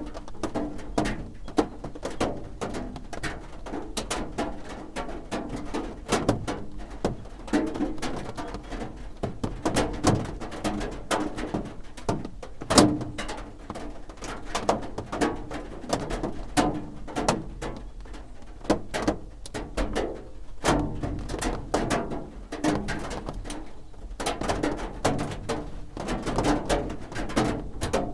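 Raindrops drumming on a roof: a dense, irregular patter of sharp taps and drips, some louder than others.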